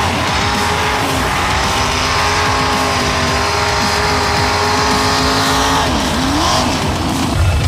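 Mud-bog truck's engine running hard at high revs, the pitch held fairly steady, then dropping and climbing again about six seconds in.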